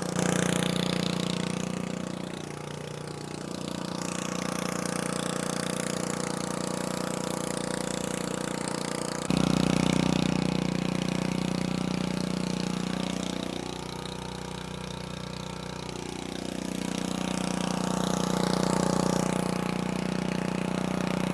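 Small engine of a Harbor Freight clean water pump running steadily while pumping water, with an even hum that gets louder about nine seconds in.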